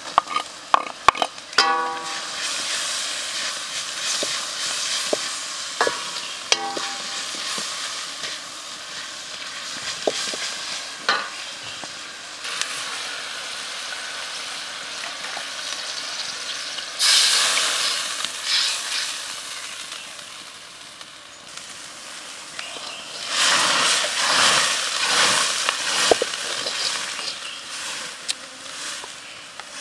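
Chopped vegetables tipped into a hot steel wok of frying spice paste, sizzling steadily as they are stirred. Near the start a metal bowl and ladle clink and ring against the wok. Louder rushes of sizzle come later, as liquid goes into the hot pan.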